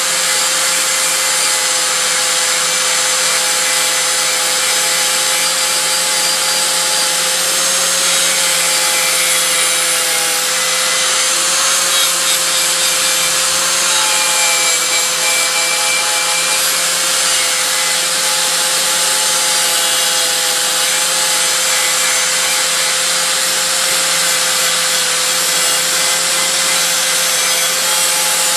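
Rotary power tool running steadily against an aluminium sewing-machine cover, a constant motor whine under a dense rubbing hiss, as the paint is stripped or the metal polished.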